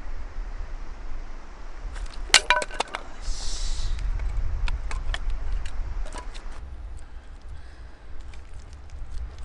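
Metal camp cookware clinking: one sharp clink with a brief metallic ring about two seconds in, followed by scattered light clicks and ticks over a low steady rumble.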